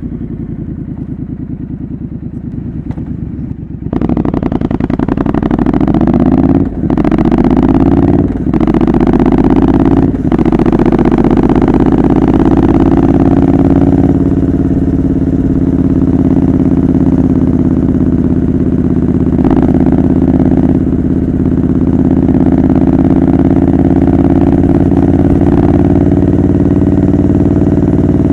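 Triumph Scrambler 900's 900cc parallel twin through a homemade exhaust: about four seconds in it opens up hard and pulls through three quick gear changes, then settles into a steady cruise.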